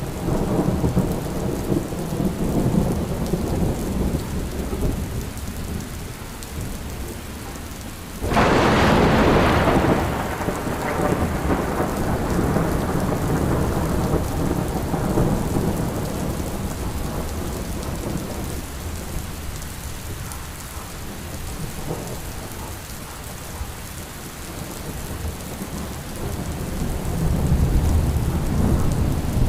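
Steady rain with rolling thunder. A sharp thunderclap about eight seconds in fades into a long rumble, and another low rumble builds near the end.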